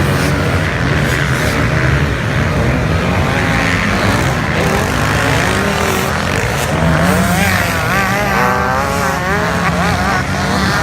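Several motocross bikes' engines running and revving together, their pitch rising and falling, with wavering revs from about seven seconds in.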